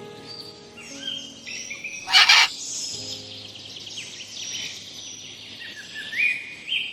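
Birds chirping and calling in quick, high, gliding notes, with one loud harsh burst a little over two seconds in.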